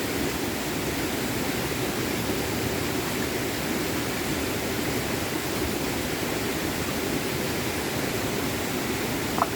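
Small stream flowing steadily over stones, an even rushing of water. A brief click sounds near the end.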